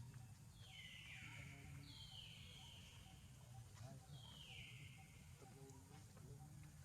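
A bird calling faintly three times, each call a high whistle that falls in steps over about a second.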